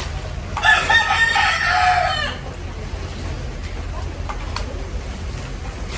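A rooster crowing once, a single long call of a little under two seconds starting about half a second in.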